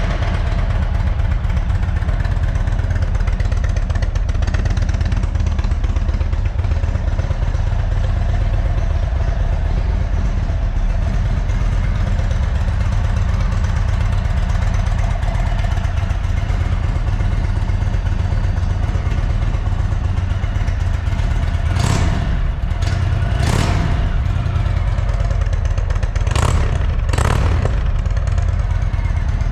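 Indian Chieftain Dark Horse's V-twin engine idling steadily with a deep low drone. Near the end the throttle is blipped four times in short bursts.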